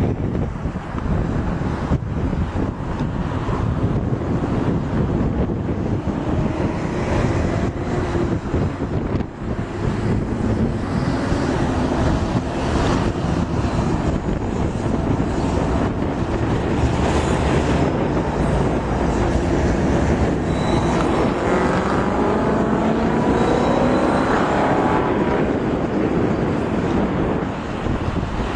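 A Canadian National freight train running past, its diesel locomotives and rolling cars making a steady loud rumble. A pitched whine rises over several seconds late in the passage.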